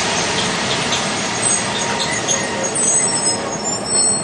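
Passenger coaches rolling past close by, their bogies running over the rails with a loud steady rumble. High-pitched wheel squeals come in from about halfway through and are strongest near the end.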